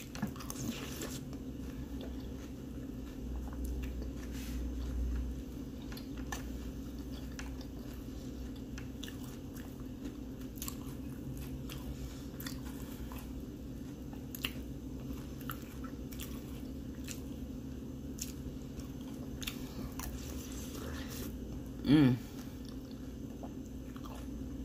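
A person chewing spoonfuls of Fruity Pebbles cereal in milk, with scattered small crunches and clicks, over a steady low hum. Near the end comes one short, loud voiced sound.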